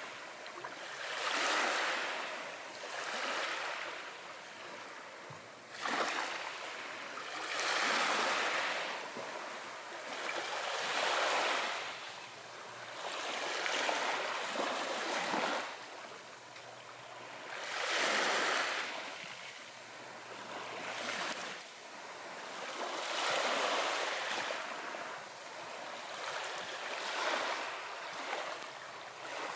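Ocean waves washing in, a surge of water swelling and fading every two to four seconds, some surges arriving abruptly.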